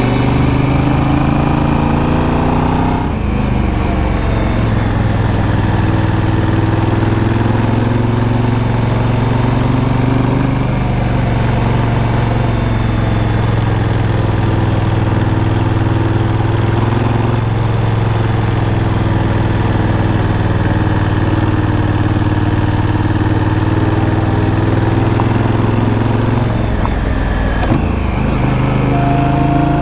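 2018 Honda Africa Twin DCT's parallel-twin engine running steadily while riding. The engine note breaks and changes pitch about three seconds in and again near the end.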